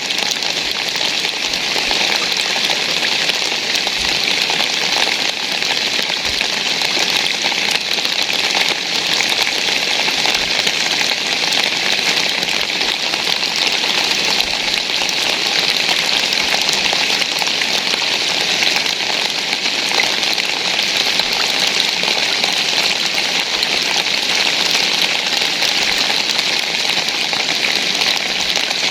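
Steady rain falling on surfaces, an even, unbroken patter.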